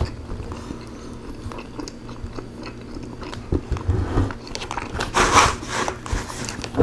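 Chewing and biting of rotisserie chicken thigh meat, with many small clicks as the meat is pulled off the bone by hand, and a louder stretch of mouth sounds about five seconds in.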